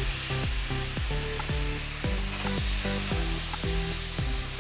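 Chicken sizzling and frying in a hot pan of oil and spices, over background music with a steady beat of about two low thumps a second.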